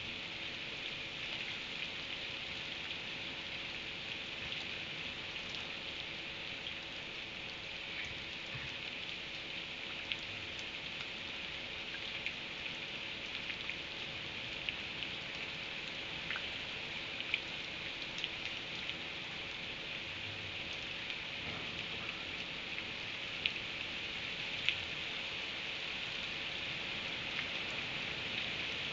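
Steady rain falling, with scattered sharp ticks of drops striking a hard surface, a few of them standing out clearly.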